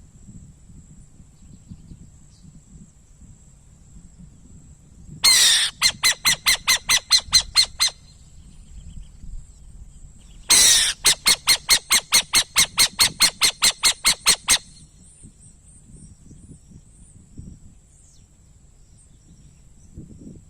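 An owl calling twice, each call a strong opening note followed by a fast, even series of sharp repeated notes, about four a second, lasting a few seconds. A faint, steady high-pitched tone runs underneath.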